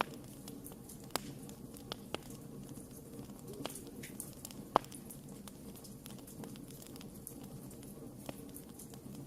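Wood fire crackling: scattered sharp pops over a low, steady hiss, with the loudest pop near the middle.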